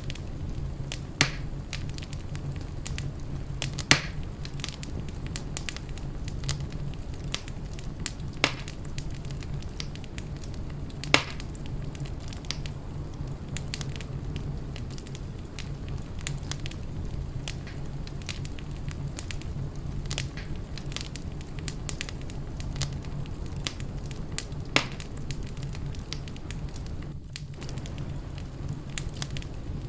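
Wood fire crackling in a fireplace: a steady low rumble of flames with scattered sharp pops, a few of them standing out clearly.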